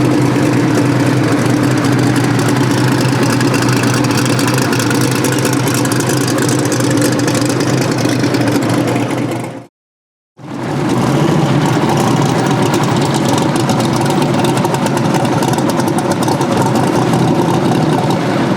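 Steady engine and road drone of a vehicle towing a trailer while driving, heard from inside the cab. It drops out to silence for under a second near the middle, then resumes unchanged.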